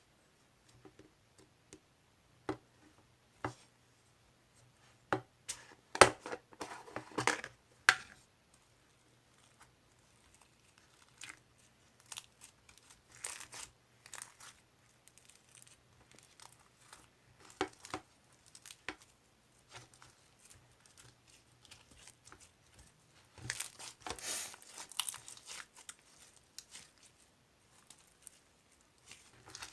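Crinkling and tearing of thin wrapping material handled close up, in bursts about six seconds in and again near the end, with scattered light taps and clicks between, over a faint steady low hum.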